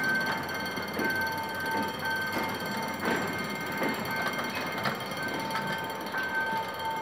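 An electronic warning alarm beeps in a repeating two-tone pattern, with short knocks of train wheels over rail joints as a passenger train hauled by a GM GT22CW-2 diesel locomotive pulls out.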